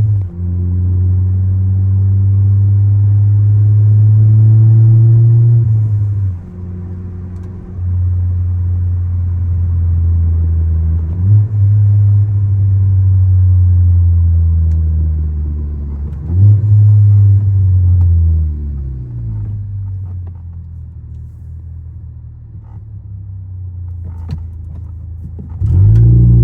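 Turbocharged Ford Focus ST engine under way, its note climbing gently and then stepping down sharply several times, about every five seconds, as the gears change. It then drops in pitch and runs quieter for several seconds before picking up loudly again near the end.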